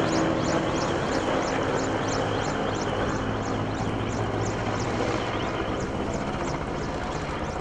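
Helicopter's turbine engines and rotor running steadily and slowly getting quieter as it moves away. A steady run of high chirps, about three a second, sounds over it.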